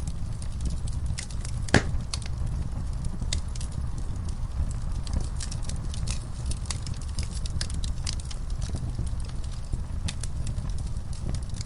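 Wood fire burning in a fireplace: a steady low rumble of flames with scattered crackles and pops, one sharper pop about two seconds in.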